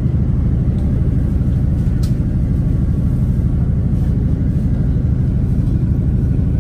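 Diesel passenger train moving, heard from inside the carriage: a steady low rumble with a constant engine hum.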